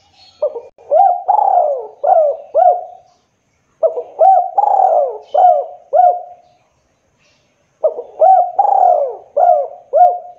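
Spotted dove cooing: three phrases of about five hoarse coo notes each, with a short pause between phrases.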